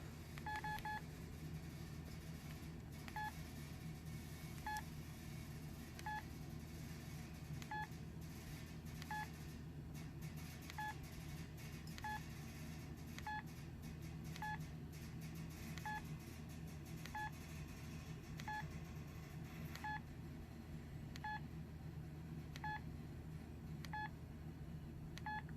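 Samsung SCH-U520 cell phone keypad tones: short beeps about once every second and a half as the keys are pressed to step through menu items, with a quick run of three near the start. A steady low hum runs underneath.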